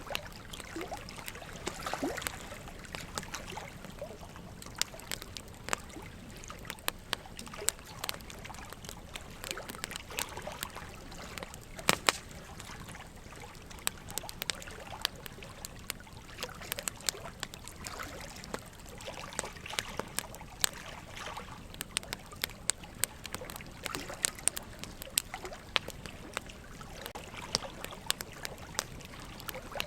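Wood fire crackling, with frequent irregular sharp pops, the loudest about twelve seconds in, over a steady trickle of running water.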